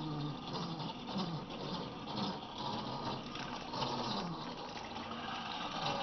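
Running creek water, with a small electric RC truck motor whining faintly and rising and falling in pitch as the truck is driven through it.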